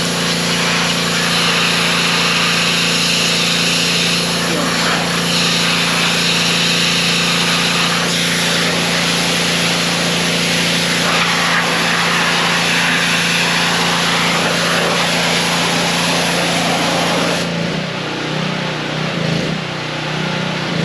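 An engine running steadily under a dense hiss; the sound drops and becomes rougher near the end.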